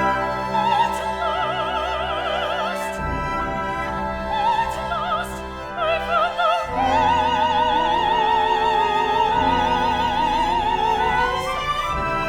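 Operatic soprano singing a wordless vocalise with wide vibrato over a small instrumental ensemble. Short phrases in the first half give way to one long held note that glides upward near the end.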